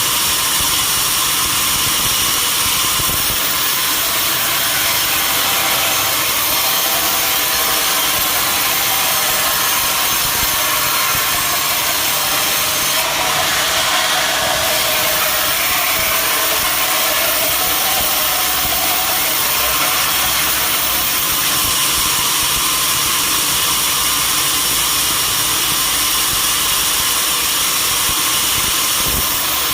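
Sawmill saw running and cutting through mahogany, a steady loud mechanical noise with a strong high-pitched hiss. The top end briefly turns brighter about halfway through.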